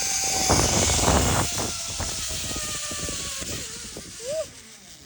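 Zip-line trolley pulleys running along the cable with a thin whine that slowly falls in pitch as the rider slows. Wind buffets the phone microphone. The whine fades out about four and a half seconds in.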